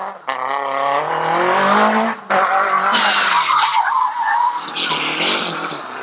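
Rally car engine revving hard, its pitch climbing, with two abrupt cuts. From about halfway, tyre squeal and skidding.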